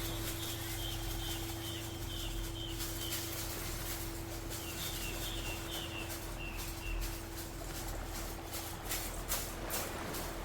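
A Tibetan singing bowl's steady hum sounds under a bird singing two runs of short, falling chirps, the second about four seconds in. A few sharp clicks come near the end.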